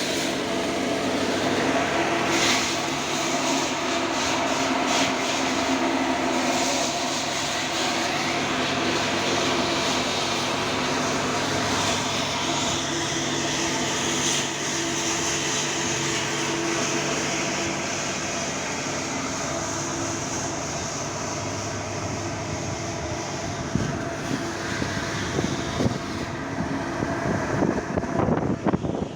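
A motor or engine running steadily with a noisy mechanical hum. In the last few seconds there are irregular knocks.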